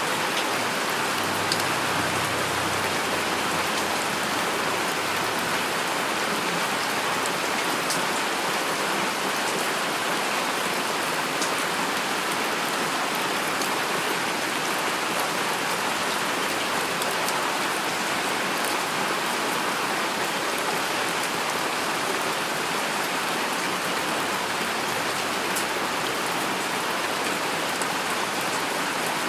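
Steady rain falling, an even hiss with a few sharper drop ticks standing out here and there.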